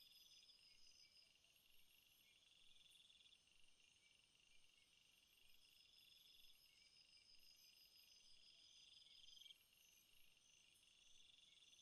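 Chorus of night insects, crickets and katydids, layered: one high trill swells and cuts off about every three seconds, over steady pulsed chirping and short repeated buzzes higher up. Faint.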